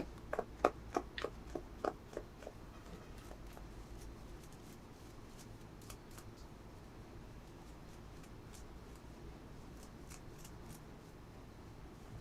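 Hands unboxing small items make a quick run of about eight sharp clicks and snips in the first two and a half seconds, followed by faint scattered ticks.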